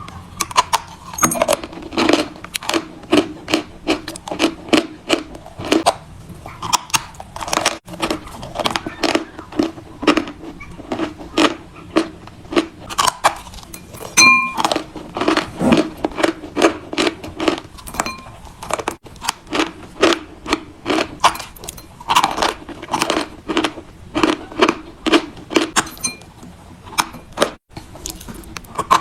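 Chalk being bitten and chewed close to the microphone: a steady series of sharp, brittle crunches, about two a second.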